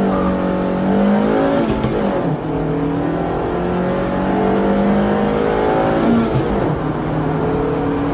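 Honda Civic FD6's 1.6-litre i-VTEC four-cylinder engine at full throttle on a 0–100 km/h run, heard from inside the cabin. It revs up, drops in pitch at an upshift about one and a half seconds in, climbs again, and drops at a second upshift about six seconds in before climbing once more.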